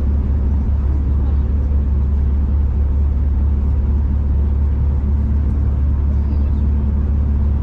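V/Line passenger train running at speed, heard from inside the carriage: a loud, steady low rumble of wheels and running gear on the track, with a faint steady hum above it.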